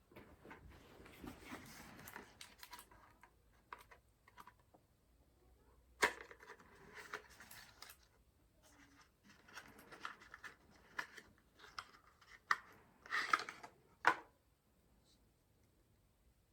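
Handling noises while a CPU air cooler is being unpacked or fitted: bursts of rustling packaging or plastic with several sharp clicks of parts knocking, the loudest about six seconds in and a cluster of them near the end.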